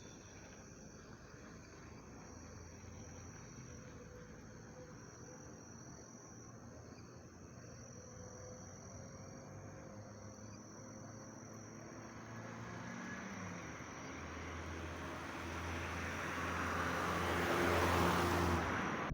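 Insects trilling in a steady, repeated high pattern. In the second half a motor vehicle approaches, its noise and low hum growing louder until it is loudest near the end.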